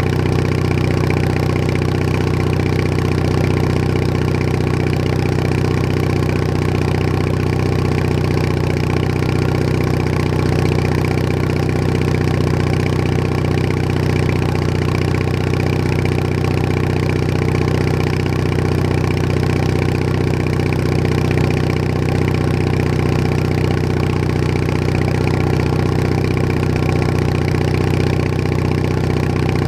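Bolens HT20 garden tractor engine running steadily, heard close from the tractor itself, with no change in speed.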